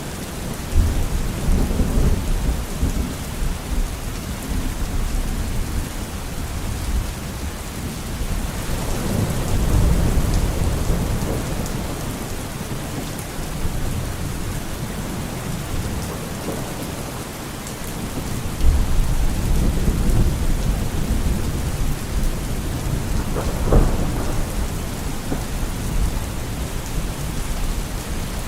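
Steady rain falling throughout, with repeated rolls of thunder rumbling low, swelling and fading three times, and a sharper thunder crack later on.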